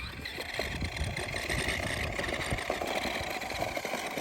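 A motor running steadily, with a dense rattle of small ticks.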